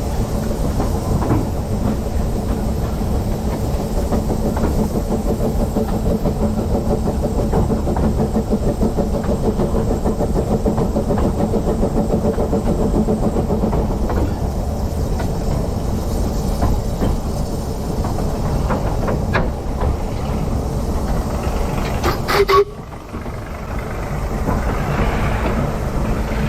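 Narrow-gauge steam train, hauled by a 1913 Orenstein & Koppel 0-4-0 tank engine, running along the line: a steady low rumble with wheel clatter on the rails. Near the end there is a brief louder moment and the sound suddenly drops, then builds back up.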